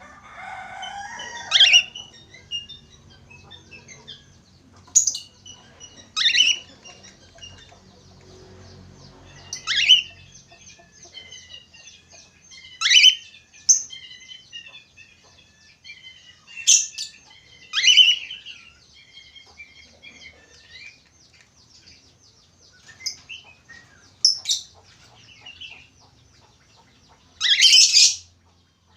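Budgerigar warbling in a steady twittering chatter, broken every few seconds by loud, sharp chirps.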